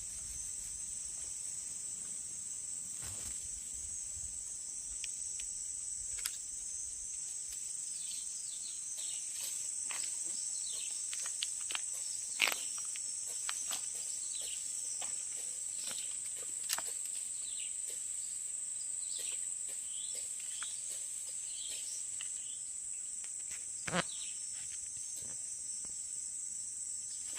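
Steady high-pitched insect chorus, with scattered short high chirps and a few sharp clicks.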